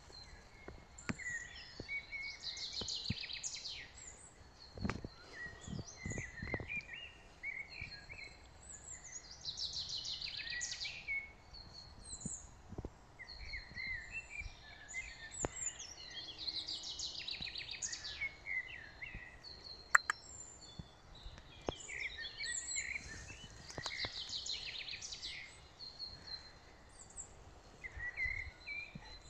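Songbirds singing: a rapid run of high notes that repeats about every seven seconds, with scattered chirps between. There is one sharp click about two-thirds of the way through.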